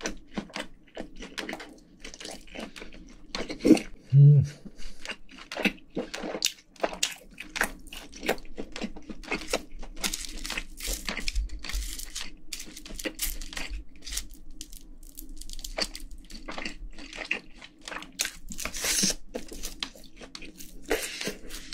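Close-miked chewing and mouth sounds from eating spicy braised pork ribs and white rice: a dense run of wet smacks and small crunchy clicks. There is a short hummed "mm" about four seconds in.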